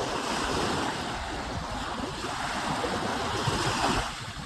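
Steady rushing of wind and waves, with wind buffeting the microphone.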